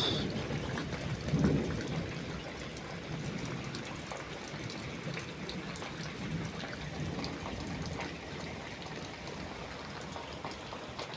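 Heavy rain falling, with many scattered drops pattering and water trickling; a brief louder swell about a second and a half in.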